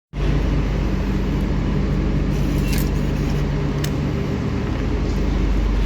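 Electric passenger train running at steady speed: a loud, even low rumble with a steady hum, and a few faint clicks over it.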